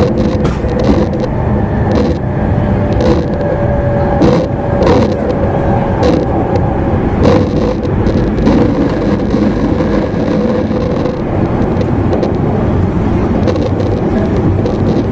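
Running noise inside a JR East E259 series Narita Express motor car under way: a steady rumble of wheels on rail, broken by irregular sharp clicks from rail joints and points, with a faint steady tone from the drive. A faint high whine comes in near the end.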